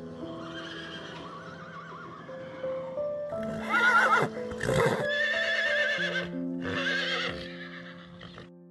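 A horse whinnying, with a wavering pitch, in loud calls from about three seconds in, over background music of steady held notes.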